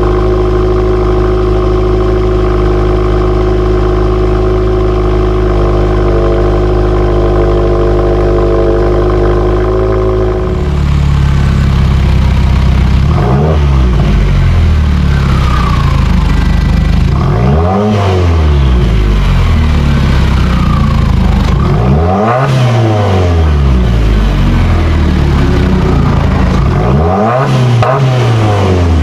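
Exhaust note of a 2017 Subaru Forester XT's turbocharged 2.0-litre flat-four through an aftermarket Nameless Performance exhaust: a steady idle for about ten seconds, then, after an abrupt change to another recording, the engine is revved four times, each rev rising and falling.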